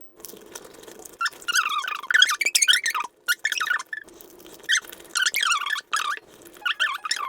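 Squeaky chewing of food, in four bursts of rapid high squeaks with short pauses between.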